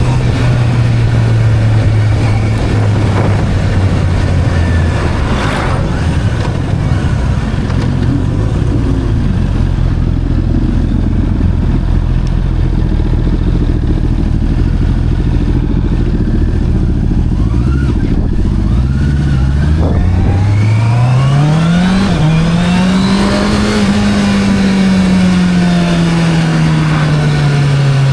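Motorcycle engine on the move, holding steady revs, then revving up sharply about two-thirds of the way in. After a brief break in the rise, the revs slowly fall away toward the end.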